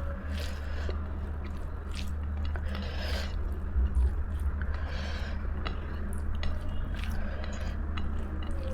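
Person chewing food close to the microphone, with wet mouth clicks and smacks at irregular moments, over a steady low hum.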